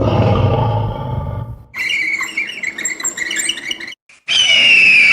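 Lion roaring, the roar ending about a second and a half in. After it comes a choppy high-pitched sound, then a short silence. Near the end a loud, shrill shriek with a slowly falling pitch begins.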